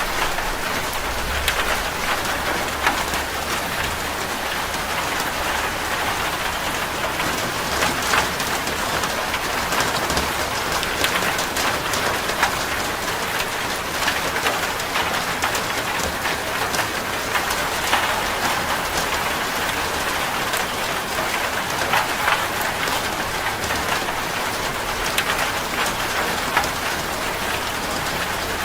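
Steady rain drumming on a corrugated zinc roof, a dense hiss of water with many sharp individual drop ticks on the metal.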